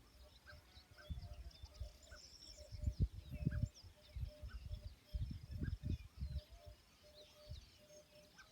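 Several birds chirping and twittering, with one short note repeated about twice a second and a rapidly pulsing call underneath. Irregular low rumbles are the loudest sound, strongest about three seconds in and again around five to six seconds in.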